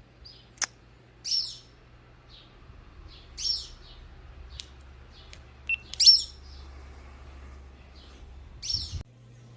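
Backyard songbird calling: four loud, short, high calls about two to three seconds apart, with softer short chips between them. There is a sharp click about half a second in.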